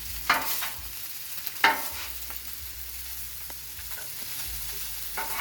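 Rice sizzling in oil on a Blackstone steel griddle top, with a metal spatula scraping and clacking against the plate three times as the rice is stir-fried and broken up.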